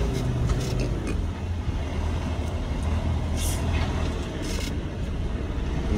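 Semi-truck's diesel engine running steadily at low speed, heard from inside the cab, with two short hisses of air.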